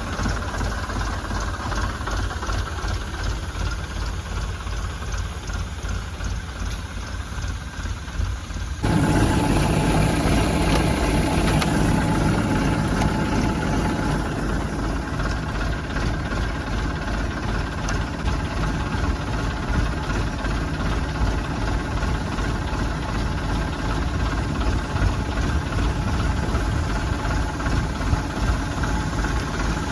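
Tractor engine running steadily, driving its mounted sprayer pump. About nine seconds in, the sound abruptly becomes louder and fuller, then holds steady.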